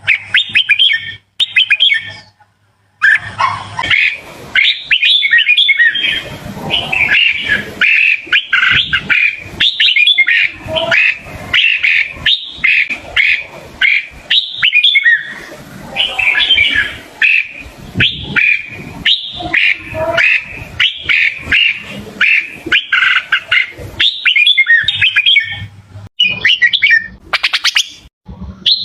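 Red-whiskered bulbul calling: quick, chirping, whistled phrases repeated almost without pause, with a short break about two to three seconds in.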